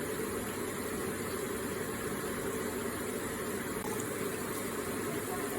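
Electric water feature running: water trickling and splashing in a steady, unchanging rush.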